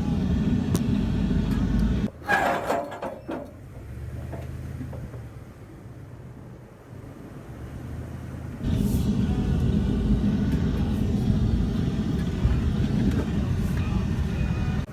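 Vehicle driving over rough ranch track: a loud, rough low rumble. About two seconds in it drops off suddenly with a few short rattles, leaving a faint steady hum, and the rumble comes back strongly about nine seconds in.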